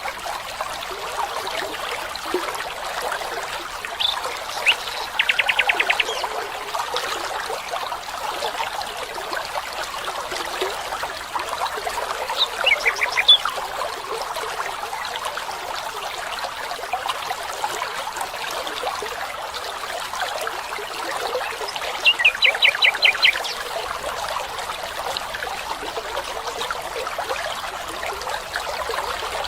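A stream trickling and babbling steadily, with a songbird giving a short rapid trill twice, about five seconds in and again near twenty-two seconds, and a few chirps in between.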